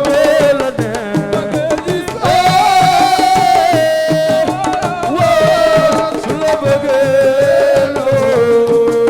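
Live Senegalese assiko band music: hand drums play a dense, fast rhythm under a long, sustained, slightly wavering melody line.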